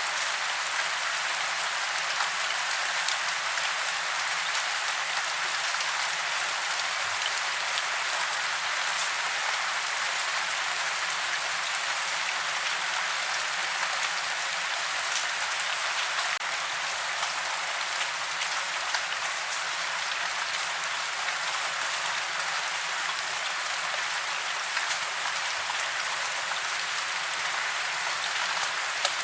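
Steady rain falling, an even rush of many drops with fine individual drop ticks scattered through it and no thunder.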